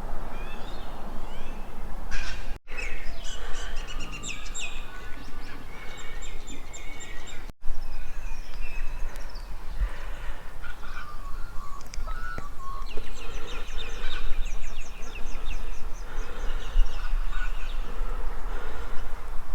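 Several birds calling together in a chorus of overlapping chirps and fast trilling calls, over a steady low rumble. The sound cuts out for an instant twice.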